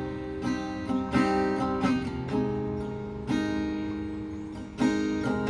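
Guitar chords strummed slowly, each left to ring and fade before the next, about a second apart. It is a long, slow song intro played before the singing comes in.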